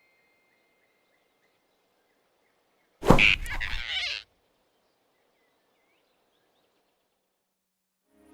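A cartoon sound effect: a sudden loud impact with a noisy tail lasting just over a second, about three seconds in, against a quiet background of faint birdsong.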